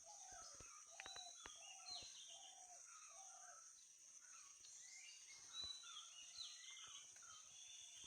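Faint forest ambience: several birds giving short, repeated calls over a steady high-pitched insect drone, with a few soft clicks.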